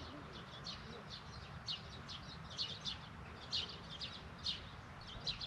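Birds chirping: short, high-pitched chirps, irregular, one or two a second.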